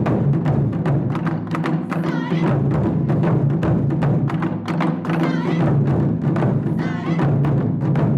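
Japanese taiko drum ensemble playing, a dense run of strikes over the deep, lingering boom of the large drums.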